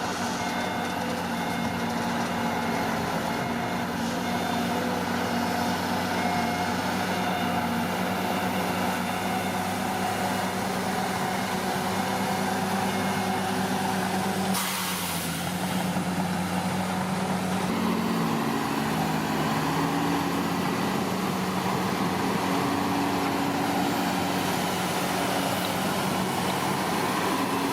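Diesel engine of a Komatsu D41P crawler bulldozer running steadily under work. About halfway through comes a short hiss, and shortly after it the engine note dips and then recovers.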